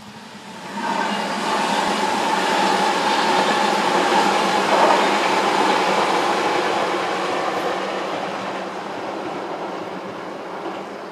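Tobu 100 series Spacia limited-express electric train passing on the line. The rush of wheels on rail swells about a second in, with a steady whine for the first few seconds, then fades slowly as the train draws away.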